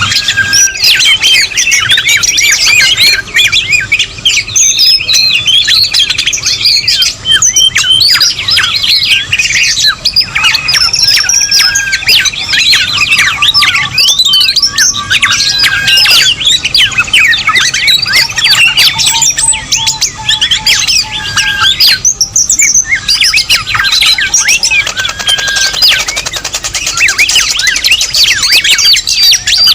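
Dense, loud chorus of many overlapping bird chirps, whistles and squawks, a bird-trapping lure recording that mixes several species' calls without pause.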